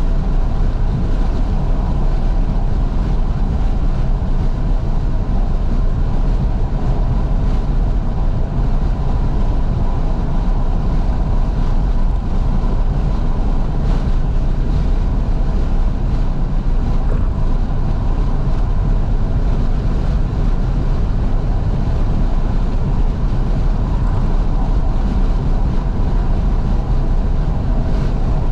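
Steady road and wind noise inside a moving 2012 Fiat 500S driven with its windows wide open, wind rushing in over a low, even rumble.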